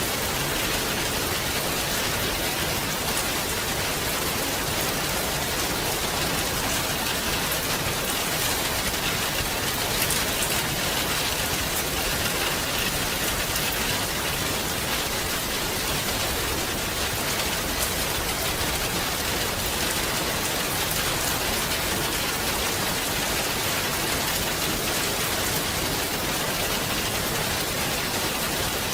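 Steady heavy rain falling on a surface, a dense even hiss with fine patter of drops.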